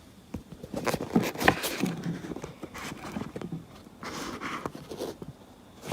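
Irregular soft rustling and light taps of movement close by, with a brief low murmur about two seconds in.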